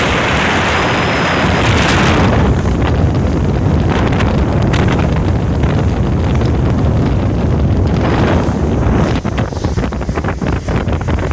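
Wind buffeting the microphone aboard a fast-running motor yacht, over the low, steady rumble of its twin turbocharged Aifo Iveco 630 hp diesel engines and water rushing past the hull. The wind is strongest for the first couple of seconds and comes in short gusts near the end.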